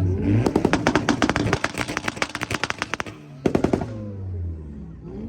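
Performance car engine revving with a rapid string of loud exhaust pops and bangs: a long burst of about two and a half seconds, then a shorter one a little past halfway, with the engine note rising and falling between them.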